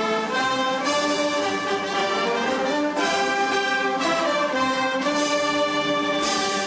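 Brass-led orchestral or military band music playing sustained chords that move from one to the next every second or so.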